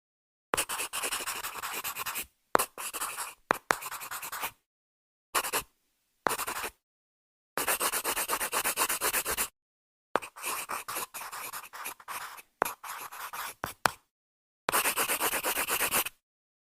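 Writing on paper: scratchy strokes in a series of short takes, each under a second to about two seconds long, with silent gaps between them.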